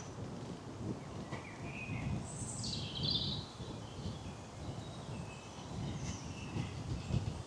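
Wild songbirds calling, a few short calls. The clearest is a note dropping in pitch about three seconds in. Under the calls runs a steady low rumble.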